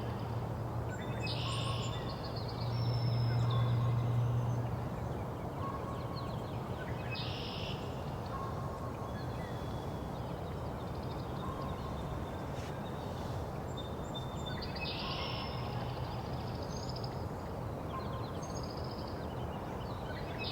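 Spring songbird chorus: separate bursts of high song every few seconds, with short repeated notes between them, from birds such as the American goldfinch, song sparrow and northern cardinal. A low steady hum runs underneath, loudest in the first few seconds.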